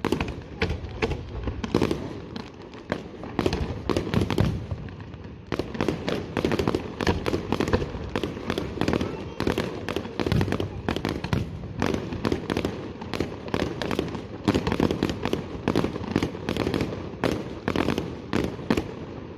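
Aerial fireworks going off in a dense, rapid string of bangs and crackles, several explosions a second with hardly a pause.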